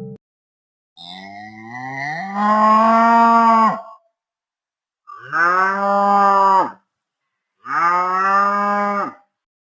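Cow mooing three times: a long moo that starts low and rises in pitch, then two shorter moos.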